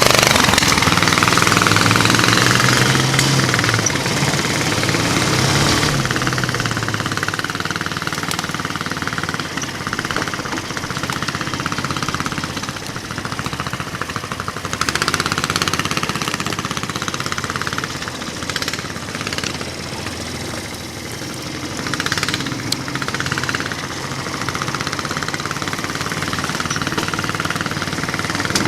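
Mini bike trike's 420 cc single-cylinder engine running and revving up and down, loudest in the first few seconds, with swells again around the middle and later on.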